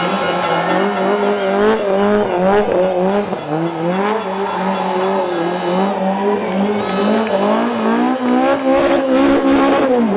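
Rally car engine at high revs, its pitch rising and falling over and over as the throttle is worked, with tyres squealing.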